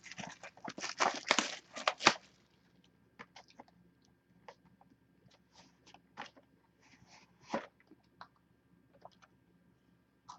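Packaging of a trading-card hobby box being handled and opened. It starts with about two seconds of dense crinkling and crackling, then thins to scattered small crinkles and clicks.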